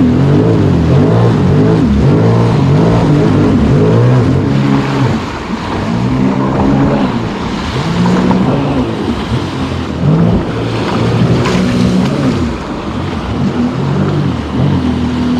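An engine revving up and down over and over, its pitch rising and falling about once a second.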